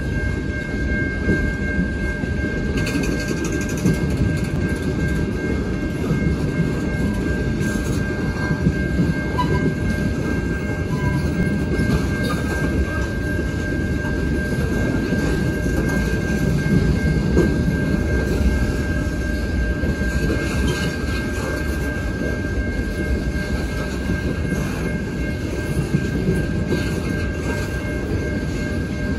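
Freight cars of a long mixed train, boxcars and tank cars, rolling past: a steady low rumble of wheels on rail with irregular clickety-clack over the joints. A steady high-pitched tone sounds throughout.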